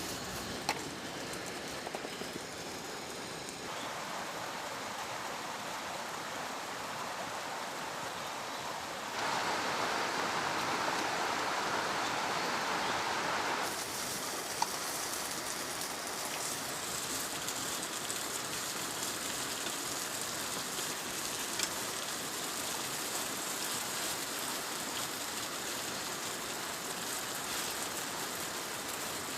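Steady rain falling, an even hiss with a few sharp single drop ticks. It shifts abruptly a few times and is louder for a few seconds in the middle.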